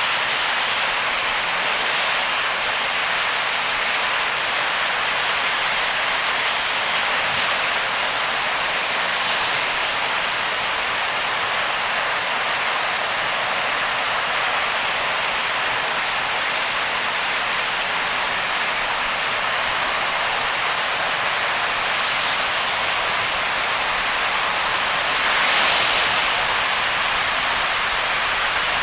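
Heavy rain on a moving car, with the tyres hissing through water on the road: a steady hiss, swelling briefly louder twice.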